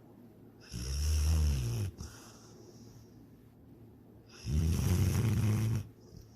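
A sleeping dog snoring: two loud snores, each about a second and a half long with a low buzzing pitch, the first near the start and the second about three and a half seconds later.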